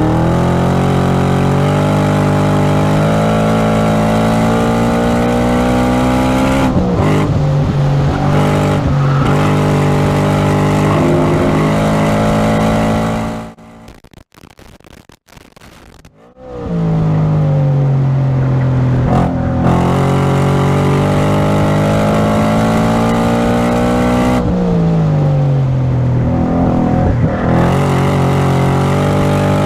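BMW E92 M3's 4.0-litre V8 at hard throttle: revs climb with a gear change about seven seconds in and keep climbing. The sound drops out almost completely for about three seconds midway from a microphone fault, returns climbing, then revs fall away as the car slows about 25 seconds in and pick up again near the end.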